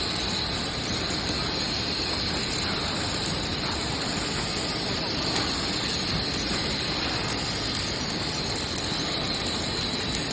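Hydraulic scrap metal baler running: a steady mechanical noise of even loudness with a thin, high, constant whine over it.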